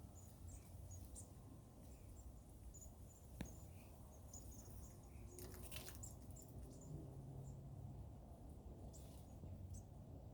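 Many small birds giving short, very high-pitched chirps, faint and irregular, over a low background rumble. A single sharp click about three seconds in and a brief rustle near the middle.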